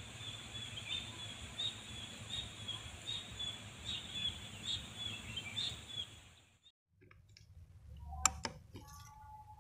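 Small birds chirping in short high calls, about two a second, over a steady high hiss of open-field ambience. The sound cuts off about seven seconds in, and a single sharp click with a dull thump follows about a second later.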